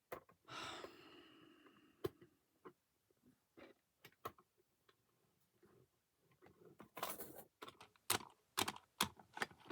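Light, scattered clicks and taps of a plastic model locomotive being handled and set back onto its track, with a brief rustling sound about half a second in and a quick run of clicks near the end.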